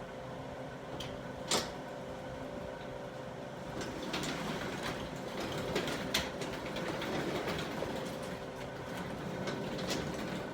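Garage door being lifted by hand, its rollers rumbling along the tracks with a few sharp clicks and clanks; the rumble grows louder about four seconds in.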